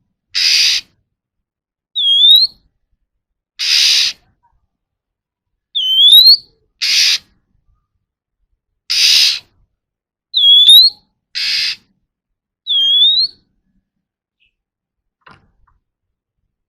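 Oriental magpie-robin calling: short harsh rasping churrs alternate with short up-slurred whistled notes, one sound every second or two. It falls silent for the last few seconds apart from a faint tick.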